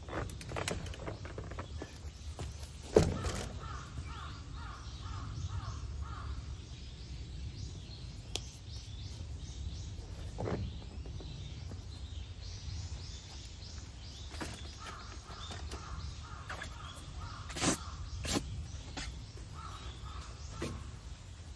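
A bird calling in runs of quick repeated notes, mixed with sharp knocks as a folding camp cot's metal frame is handled and set down; the loudest knock comes about three seconds in, and two more come close together near the end.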